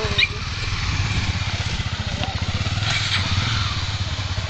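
Honda Tornado XR250's single-cylinder engine running steadily.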